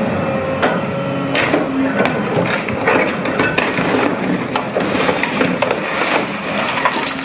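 Radio-controlled construction machine at work: a faint steady motor whine under many clacks, knocks and scraping sounds.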